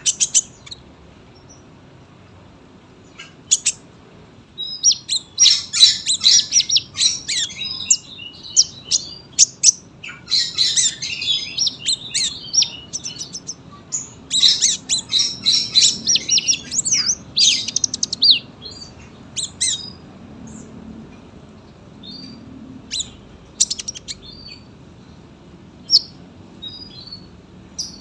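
Olive-backed sunbird singing: three long runs of rapid, tightly packed high chirps, each lasting a few seconds, with scattered single chirps in between.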